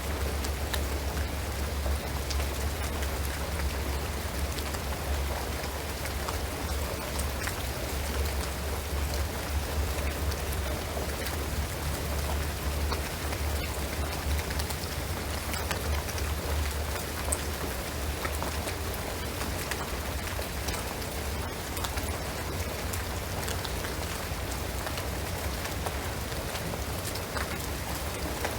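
Steady rain falling on a shingled roof and pine trees, a dense even patter of drops with a constant low rumble underneath.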